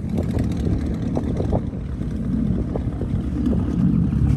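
Vehicle engine running with a steady low rumble, growing louder near the end.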